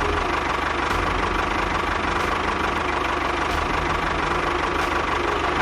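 Small engine of a miniature DIY tractor running steadily at idle, with a low pulsing beat and a steady whine.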